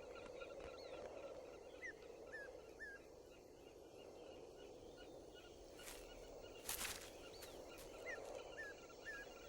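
Faint outdoor field sound of a bird calling in short chirps, two runs of three about six seconds apart. A couple of brief rustling noises come between them, the louder one about seven seconds in.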